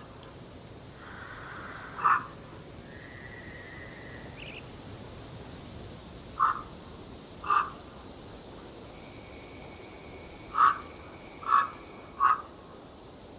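Wild birds calling: six short, loud calls at uneven intervals, with fainter long whistled notes from other birds in between, over a steady hiss.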